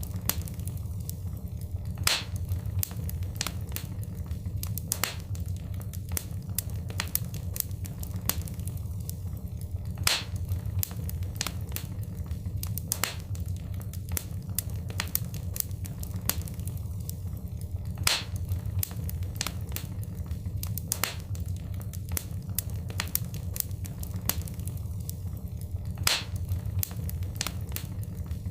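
Fire crackling in a fireplace: a steady low rumble of flames under constant small clicks and snaps, with a louder pop about every eight seconds.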